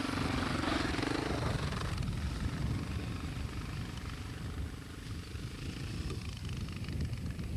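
Husqvarna 610 dirt bike's single-cylinder four-stroke engine running, its note strong for the first second or two and then dropping to a fainter, lower hum.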